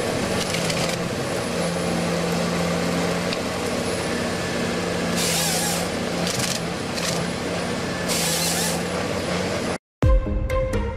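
Heavy machine engine running steadily, with several short bursts of hissing over it. The sound cuts off about a second before the end and music starts.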